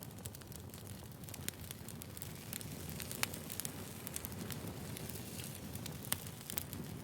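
Firewood burning: a steady low rumble with irregular sharp crackles and pops, two of them louder, a little after three seconds and just after six seconds.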